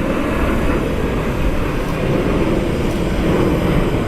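Jet airliner's engines at takeoff power, a steady loud rumble as it climbs out just after rotation.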